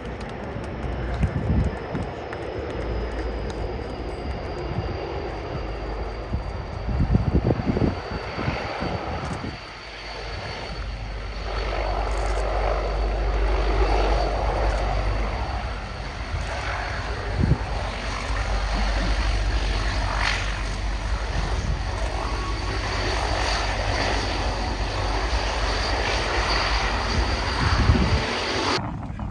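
Aircraft engine noise from a display aircraft in flight, a continuous roar with a thin high whine that slowly falls in pitch. Wind buffets the microphone in low gusts.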